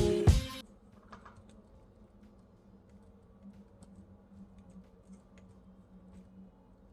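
Typing on a foldable Bluetooth keyboard: faint, irregular key clicks.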